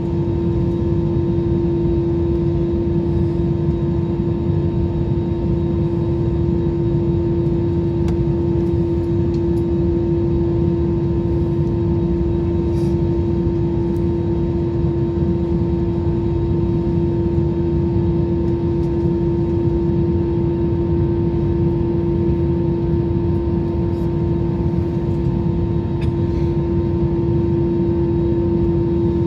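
Steady cabin noise of a jet airliner in flight: an even rush of engine and airflow with one droning tone held level throughout.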